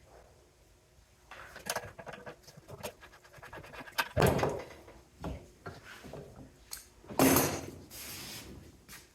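Handling noises from scrap parts being moved about: scattered light clicks and scrapes, with two louder sliding knocks about four and seven seconds in.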